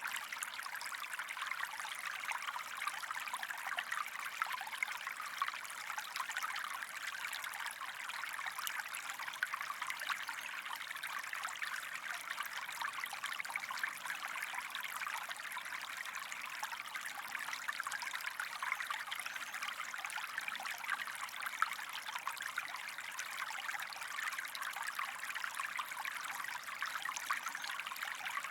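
Shallow stream water running and trickling steadily, a continuous bright burble with many small splashes.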